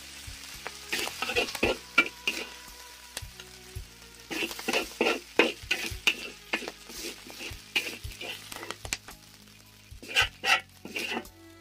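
Catfish and sour bamboo shoots sizzling in a wok while a spatula scrapes and knocks against the pan in irregular strokes, with a couple of short pauses.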